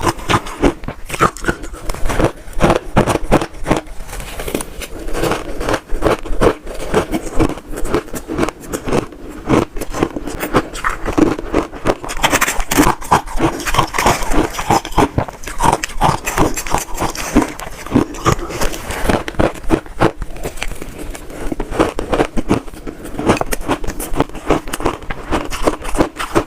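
Close-miked biting and chewing of crunchy shaved ice: a dense, continuous run of sharp crunches and crackles.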